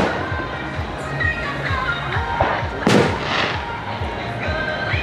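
Firework shell bursting with a sharp bang about three seconds in, followed by a short crackle, over music playing throughout.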